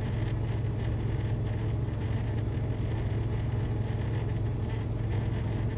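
Inside a semi-truck's cab at highway speed: a steady low engine drone with an even wash of road and tyre noise.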